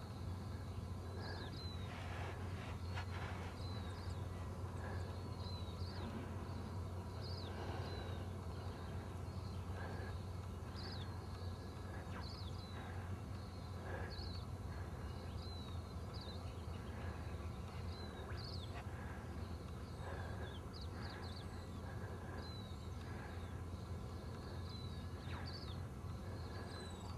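Small birds chirping in the background, short high falling chirps repeating about once or twice a second, over a steady low rumble.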